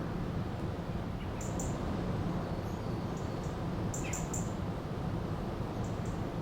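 River water rushing steadily, with a small bird giving short, high chirps in quick runs of three, about a second and a half in and again about four seconds in.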